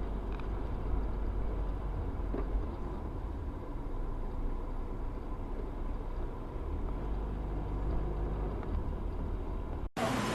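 A car driving: steady low engine and road rumble with no sudden events.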